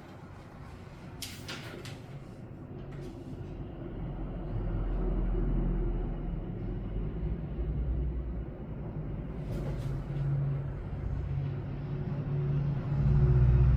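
A low engine rumble that swells from about four seconds in and stays loud, with a few short scratchy rustles on top.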